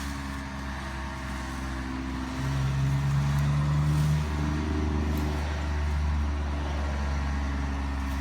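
Kubota ZT155 single-cylinder diesel engine running steadily. It gets louder about two and a half seconds in, then eases back slightly after about four seconds.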